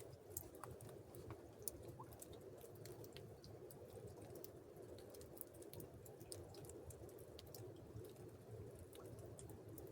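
Near silence: faint steady background noise with a few soft, scattered clicks.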